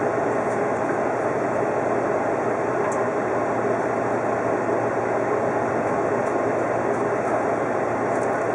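Steady running noise of an Odakyu 50000-series VSE Romancecar electric train rolling along the line, heard through the front window.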